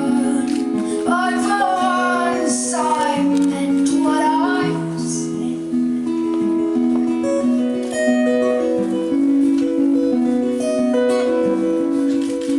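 Live acoustic song: a woman's singing voice over plucked and strummed acoustic guitar for the first five seconds or so, after which the guitar plays on alone.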